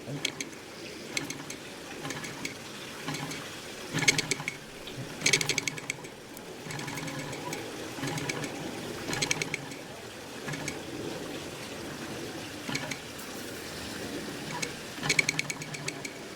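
Mamod Ol' Stumpy live-steam toy traction engine being started: its small steam cylinder chuffs and clicks in short bursts a few seconds apart, not yet running steadily, over a steady low hiss.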